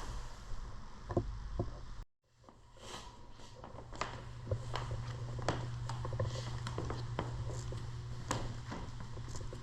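Room tone with a steady low hum and scattered light knocks and clicks. The sound cuts out for a moment about two seconds in.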